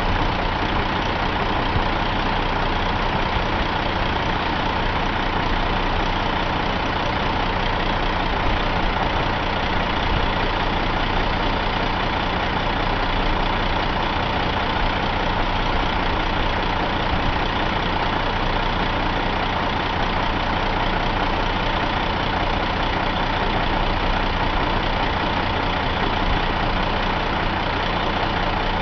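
2006 Caterpillar C13 inline-six diesel engine idling steadily.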